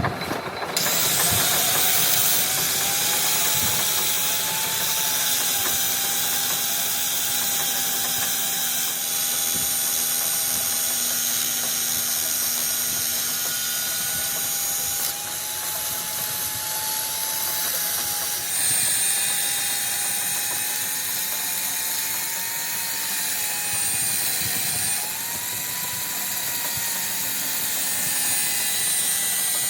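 A power tool motor running continuously under load with a steady hiss. Its tone wavers, dipping and rising in pitch as the load changes. It starts about a second in.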